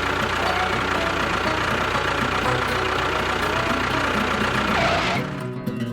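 An engine running steadily, which cuts off about five seconds in.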